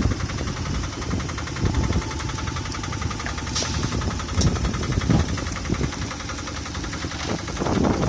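Diesel engine of a Scania P320 truck running steadily with a rapid diesel knock, swelling briefly louder a few times.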